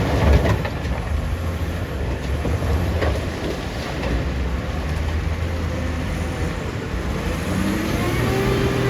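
Heavy diesel engine running steadily under load, with a faint knock about three seconds in. Near the end the engine revs up, rising in pitch and holding a higher steady note.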